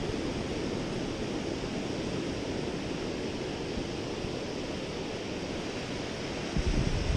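Ocean surf washing steadily onto a sandy beach, with wind buffeting the microphone near the end.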